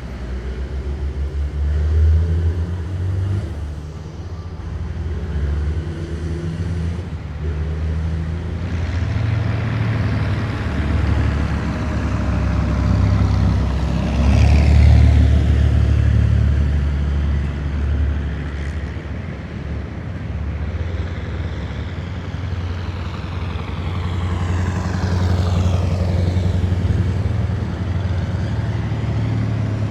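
Column of heavy military vehicles driving past, their engines making a deep, continuous rumble. It swells loudest about halfway through. A higher whine falls in pitch as vehicles go by, once mid-way and again near the end.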